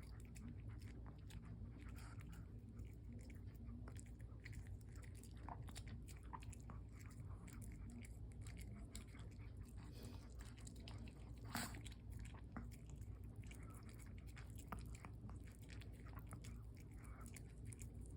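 A Pomeranian chewing and biting cherries: many small, faint mouth clicks and crunches, with one louder click about eleven and a half seconds in.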